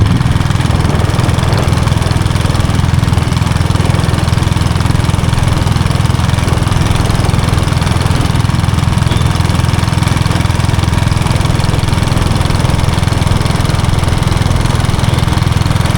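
Lombardini single-cylinder diesel engine of a diesel Royal Enfield Bullet running steadily, with no change in speed.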